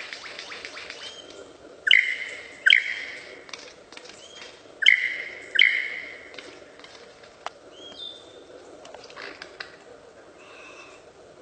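A bird calling: a fast rattle in the first second, then two pairs of loud, harsh calls, each call short with a sharp start, followed by a few fainter calls near the end.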